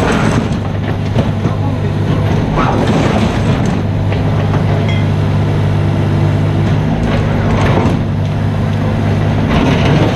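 Mini excavator's diesel engine running steadily, with louder noisy surges of work sound several times, at the start, around three seconds, between seven and eight seconds and near the end.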